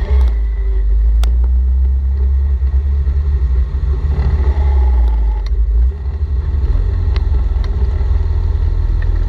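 Sebring Sprite race car's engine running at low revs, heard from on board as the car rolls slowly off the track into the paddock. It is a steady low rumble with occasional sharp clicks and rattles, and it eases slightly about six seconds in.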